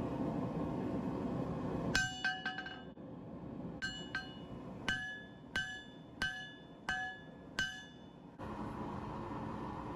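Hand hammer striking a knife blade on an anvil: about ten ringing blows, a quick run of four about two seconds in, then single blows roughly every two-thirds of a second. A steady rushing noise fills the first two seconds and comes back about eight seconds in.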